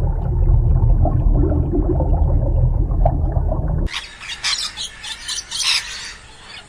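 A loud, steady low rumble with faint wavering calls above it, cut off sharply about four seconds in by birds chirping.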